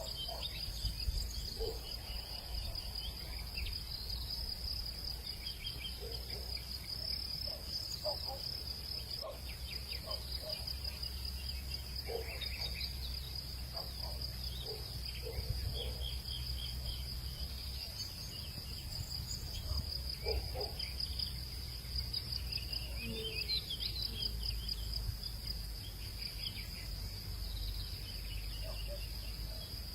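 Evening hillside ambience: a steady, high, pulsing trill of insects throughout, with scattered short animal calls dotted through it over a low steady rumble.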